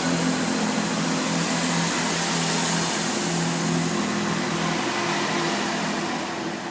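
Class 165 Turbo diesel multiple unit pulling away from the platform, its diesel engines running under power with a steady hum whose pitch shifts about halfway through. It grows slightly fainter near the end as the train moves off.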